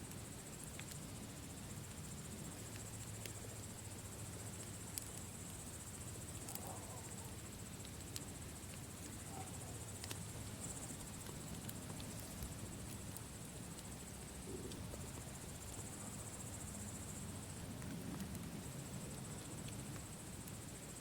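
Campfire crackling, with scattered sharp pops and snaps over a low rumble, under a steady high chirring of crickets.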